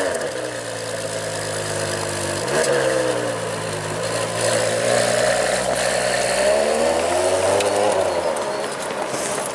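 Ferrari 599 GTO's 6.0-litre naturally aspirated V12 just after a cold start, its revs sinking from the start-up flare into a high idle. There is a short throttle blip about two and a half seconds in, then a slower rise and fall in revs as the car moves off near the end.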